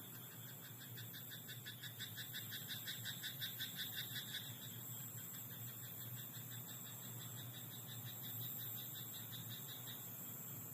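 Frogs croaking: a fast run of pulsed croaks, about six a second, building louder and stopping about four seconds in. A fainter pulsed call carries on until near the end, over a steady background hiss.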